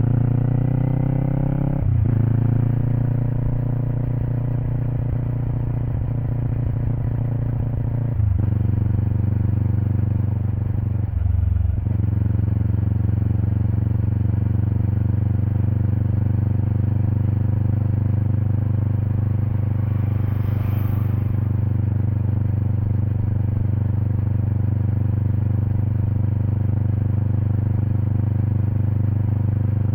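Kawasaki Eliminator SE parallel-twin exhaust through a BEAMS Power Header pipe and muffler, heard close up at the rear of the bike while riding. The engine note climbs and drops back at three upshifts in the first dozen seconds, then holds a steady cruising speed.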